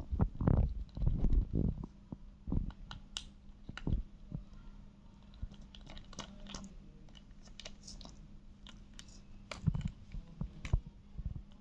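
Paper map crinkling and clicking as a ringneck parrot handles and nibbles it with its beak: scattered sharp crackles throughout, with a few duller knocks in the first couple of seconds.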